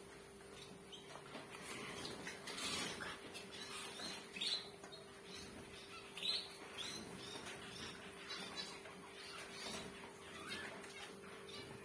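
Zebra finches chirping: many short, quick calls, several of them falling in pitch, from a group of birds, over a faint steady hum.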